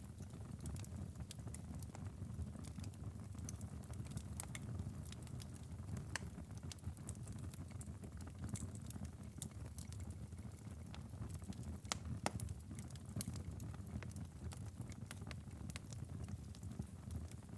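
Fireplace fire burning with a steady low rumble and constant small crackles, with a couple of louder pops about twelve seconds in.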